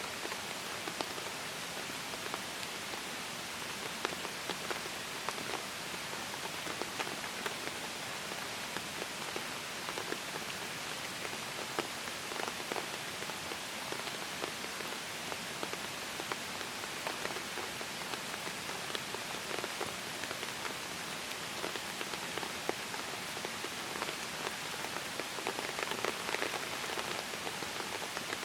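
Steady rain falling, with many small drop hits ticking throughout.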